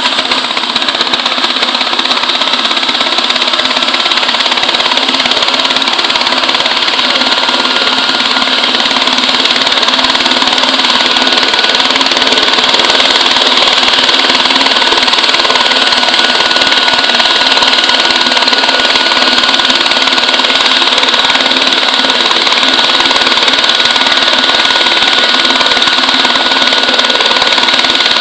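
Helicopter turbine engine and rotor running steadily at close range, a loud hissing whine with steady high tones, growing slightly louder about a third of the way in.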